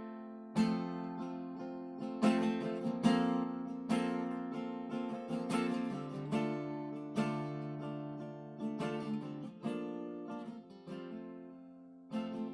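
Acoustic guitar strummed as the introduction to a worship song, with regular strokes that ring out between them.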